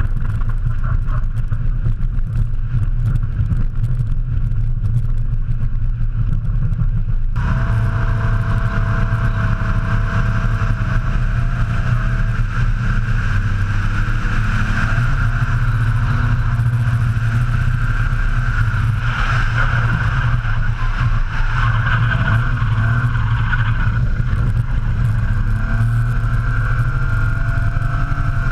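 Drift truck's BMW S38 straight-six engine running hard through a drift lap. From about seven seconds in, a steady high screech of sliding tyres joins it.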